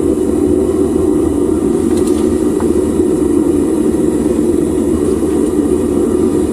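Homemade propane furnace burner firing at full heat, a steady low rushing noise, while aluminium melts in the glowing crucible.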